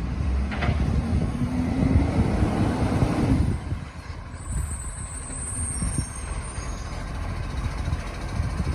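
Garbage truck's engine running loud and rising slightly in pitch, then dropping back to a steady low idle about three and a half seconds in. A high squeal follows for a couple of seconds.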